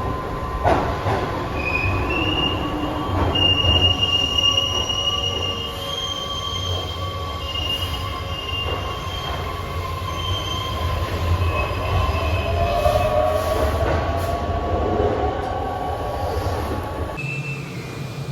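Keihan 8000 series electric train running on the rails: a steady low rumble with high-pitched wheel squeal coming and going. Near the end the rumble drops away abruptly.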